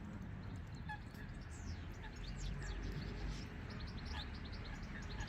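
A flock of birds chirping and calling together, many short high chirps that fall quickly in pitch and overlap, over a steady low rumble.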